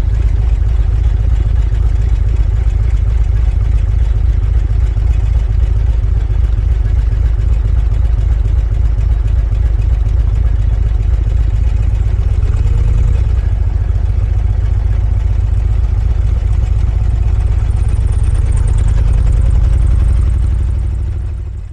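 Sidecar motorcycle running on the road, a steady loud low rumble of engine and wind, fading out near the end.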